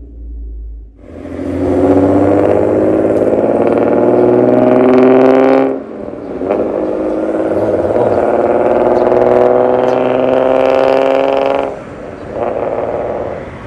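Hyundai Genesis Coupe 3.8 V6 with a catless downpipe, X-pipe and aftermarket muffler, accelerating hard. Its exhaust note climbs steadily in pitch for about five seconds, breaks briefly at a gear change, climbs again, then drops off near the end as the throttle is lifted.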